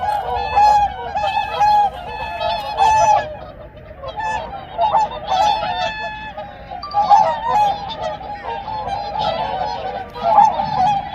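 A flock of swans calling together, many honking calls overlapping in a continuous chorus that swells and eases, louder around the start, midway and near the end.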